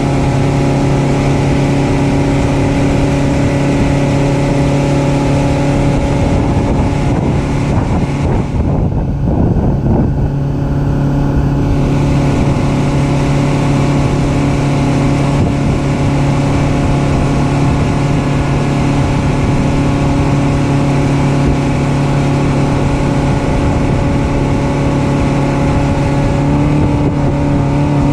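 Outboard motor of a Tidewater Baymax 2110 bay boat running at a steady speed. About eight seconds in, the higher hiss briefly drops away, and near the end the engine pitch steps up slightly.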